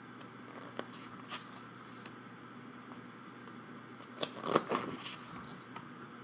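Pages of a large photobook being handled and turned: a few light clicks, then a louder cluster of paper rustling and crackling a little past halfway.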